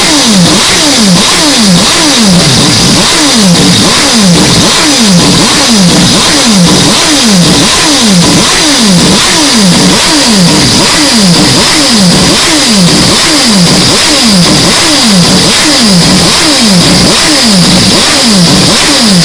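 Mazda 767B's four-rotor rotary engine, heavily boosted and distorted, its pitch falling over and over in an even repeating pattern about one and a half times a second.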